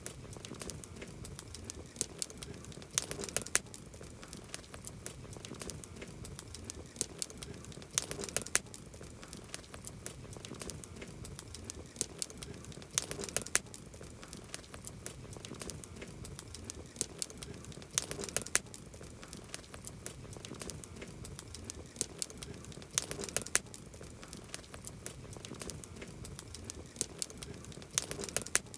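Wood campfire crackling steadily with dense small snaps. Clusters of sharper, louder pops come about every five seconds.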